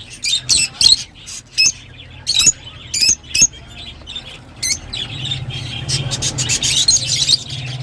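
Rosy-faced lovebirds calling: a string of short, shrill chirps, then a faster, denser run of chatter from about five seconds in, over a steady low hum.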